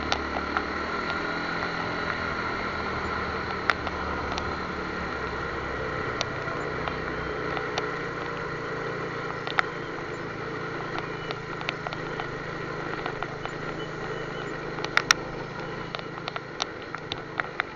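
Vehicle engine running steadily at a low idle-like hum, with scattered sharp clicks; it fades slightly near the end.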